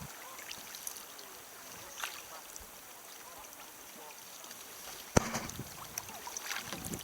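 Light splashing and water sounds around a sea kayak being paddled, with small scattered clicks and one sharp knock about five seconds in.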